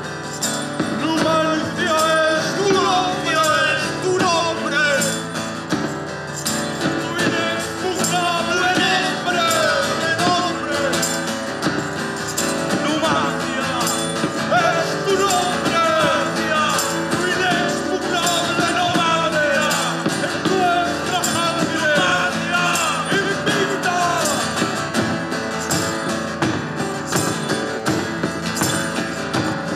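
A band playing live: a voice singing a melody over instruments, with an even percussion beat that keeps time.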